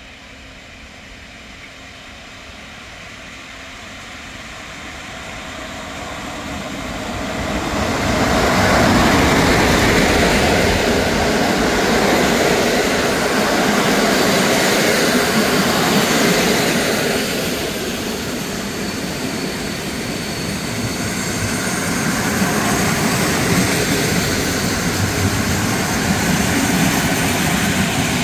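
A PKP Intercity passenger train hauled by an EP07 electric locomotive approaches and rolls past into the station. Its rumble grows over the first several seconds into a loud, steady run of wheels on rails as the coaches go by.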